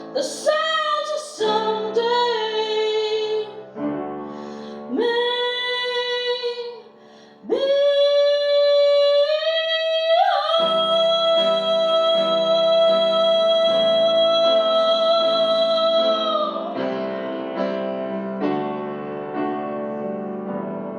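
A woman singing with piano accompaniment, closing a song: a few short sung phrases, then one long held note for about six seconds, after which the accompaniment plays on alone.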